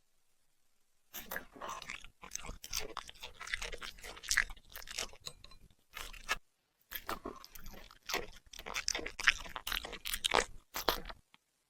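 A puppy chewing crunchy food, a quick run of crisp crunches and bites with a short pause about halfway through.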